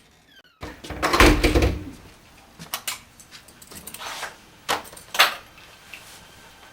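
A loud rumbling clatter about a second in, followed by a few sharp clicks and knocks.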